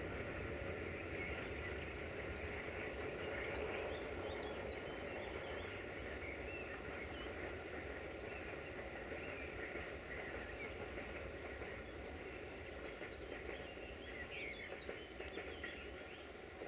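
A freight train's wagons rumbling away into the distance, the sound slowly fading, while birds chirp in short calls, more of them as the rumble dies down.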